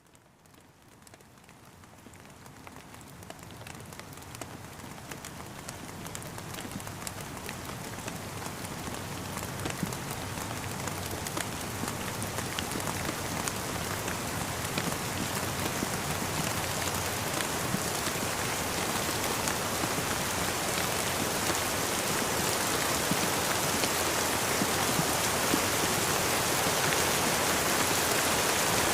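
Steady rainfall with many small drops tapping, fading in from near silence and growing steadily louder.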